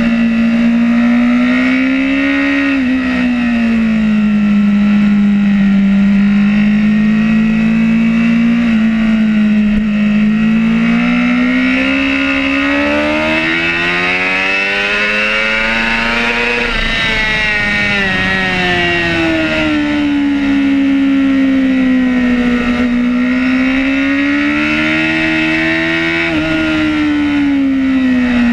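Superbike engine heard from on board at racing speed, its note rising and falling through the corners. The longest climb, with rushing wind on top, peaks a little past halfway and then drops sharply.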